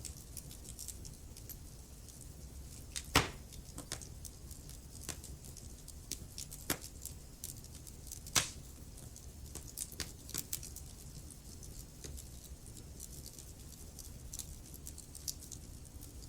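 Wood fire crackling in a fireplace: a low steady rumble with scattered small crackles and two sharp pops, about three seconds in and about eight seconds in.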